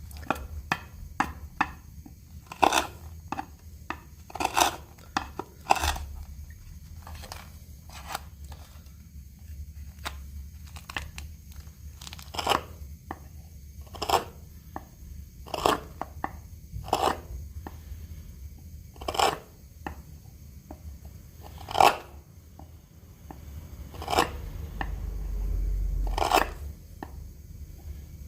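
Blade chopping into mulberry wood in sharp, irregular strikes, about one every second or two. A longer scraping noise swells and fades near the end.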